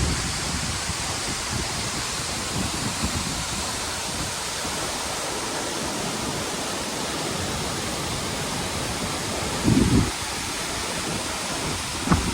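Waterfall rushing with a steady, loud roar. There is a short low thud about ten seconds in and another near the end.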